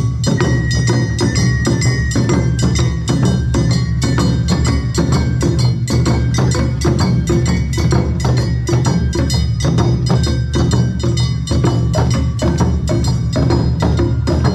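Awa Odori band (narimono) playing: fast, even strokes of hand-struck kane gongs and drums over a strong low drone, with a high melody line stepping between held notes.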